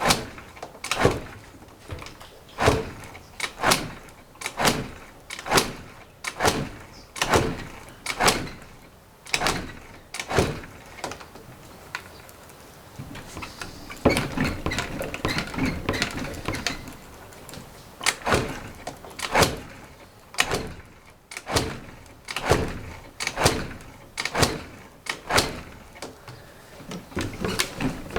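Repeated attempts to start a Suzuki Choinori scooter's small four-stroke single in −10 °C cold, a sharp stroke about once a second without the engine catching, with a brief busier stretch about halfway through. It is a hard cold start on an engine left standing a while.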